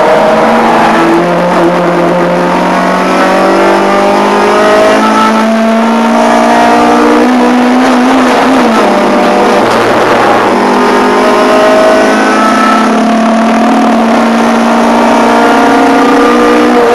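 Ford Fiesta race car's 1.4 litre Zetec four-cylinder engine running hard at high revs, heard from inside the cockpit. The pitch climbs slowly, drops sharply about nine seconds in, then climbs again.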